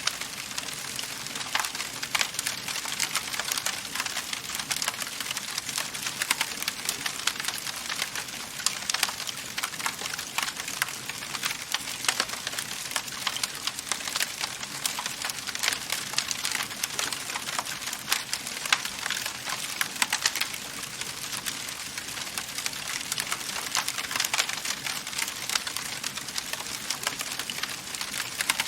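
Wood fire crackling in a fireplace: a dense, steady stream of small sharp pops and snaps over a soft hiss.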